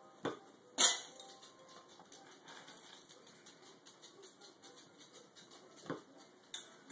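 A dog making short, sharp sounds: two in the first second, the second one loud, and two more near the end, with faint clicking in between.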